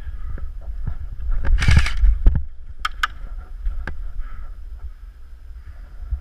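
Low wind rumble on the microphone, with a loud rustling burst about a second and a half in, followed by a few sharp clicks.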